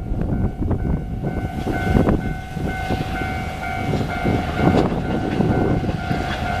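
Coal freight train hauled by an R20 diesel-electric locomotive running over a level crossing: a heavy rumble with wheel clacks on the rails. Over it, from under a second in, a steady high warning tone sounds, with a higher tone pulsing about twice a second.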